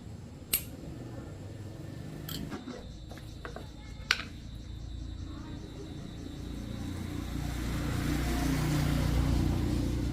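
Two sharp clicks, then a small engine running, growing louder over the last few seconds.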